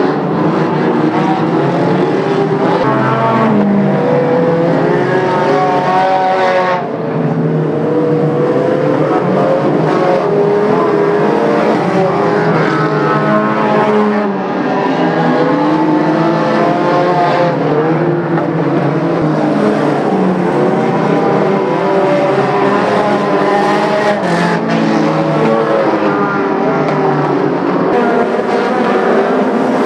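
Several racing cars' engines running hard together, their notes rising and falling as they accelerate and lift off, with a brief dip in level twice.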